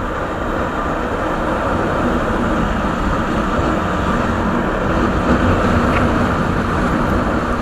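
Suzuki Savage (Boulevard S40) 650 cc single-cylinder four-stroke engine running steadily through its stock exhaust.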